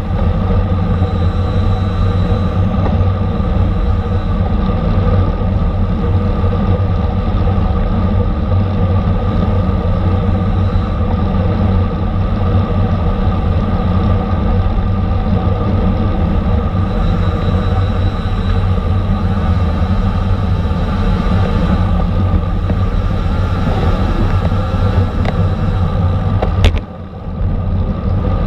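Steady, loud wind rumble on the microphone of a bicycle moving at racing speed in a criterium, with road and drivetrain noise underneath. A sharp click comes near the end, followed by a brief drop in level.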